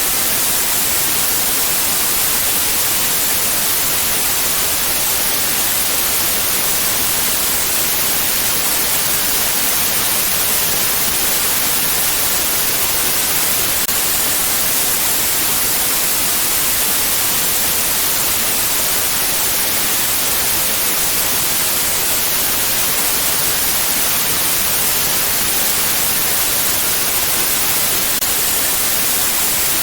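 Steady white noise: an even, unbroken hiss, brightest in the highest pitches, that does not change.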